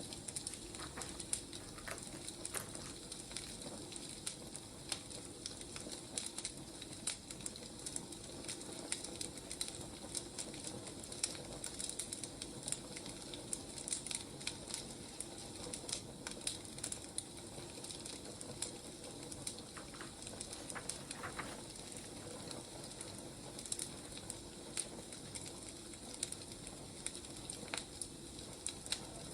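Wood fire burning: a steady soft hiss with irregular crackles and pops of the burning logs.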